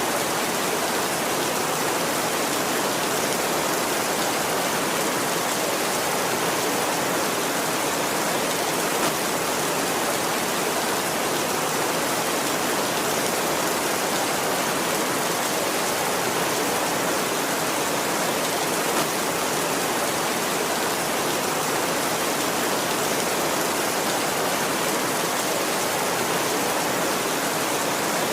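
Heavy rain falling steadily on a tin roof, an even hiss of drops.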